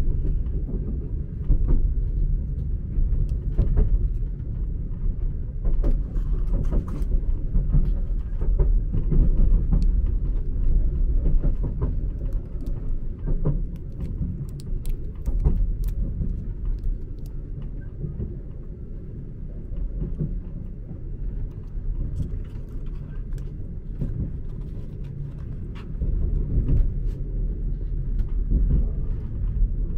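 Sleeper train carriage running along the track, a steady low rumble heard from inside the cabin that eases off for a while and picks up again near the end. Scattered clicks and crackles lie over it, some from a plastic chili sauce sachet being handled and torn open.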